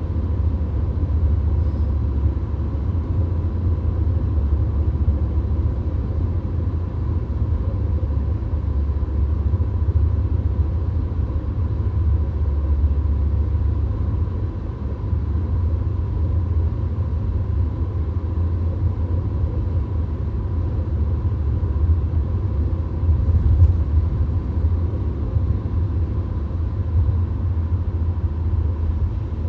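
Steady road noise of a VW Golf cruising at motorway speed, heard inside the cabin: a deep rumble with tyre and wind hiss over it.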